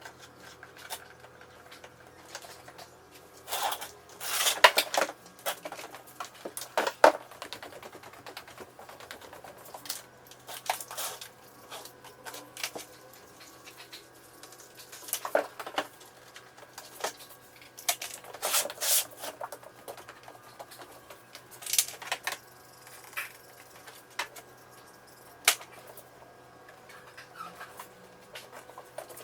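Cardboard being worked by hand: irregular scrapes, rustles and sharp clicks, with a few louder scraping strokes between quieter handling noises.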